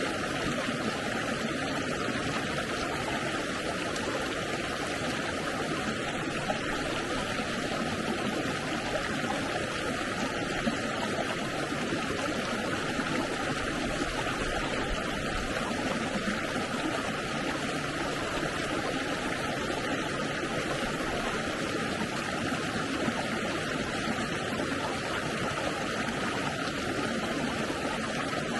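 Stream water flowing steadily, a constant rushing.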